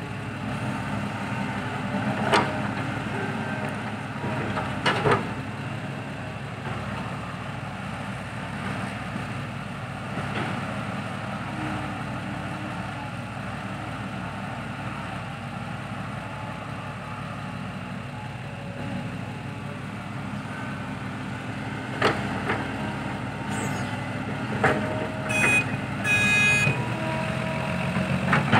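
Diesel engines of dump trucks and an excavator running steadily, with a few sharp knocks and, near the end, several short beeps.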